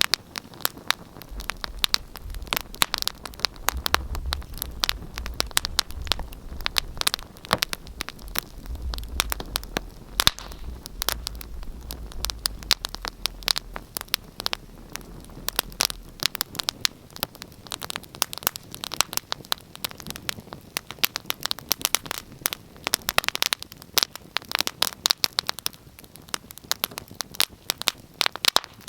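Wood fire burning in a fireplace, crackling and popping with dense, irregular sharp snaps. A low rumble runs under the crackle through the first half and fades out a little past the middle.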